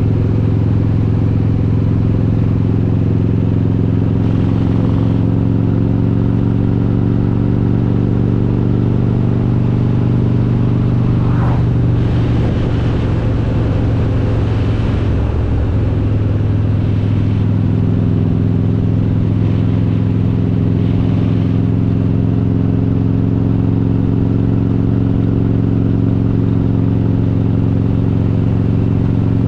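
Harley-Davidson Road King's S&S 95-cubic-inch V-twin running under way at a steady engine speed. The engine note is unsettled around the middle, then climbs slowly as the bike picks up speed.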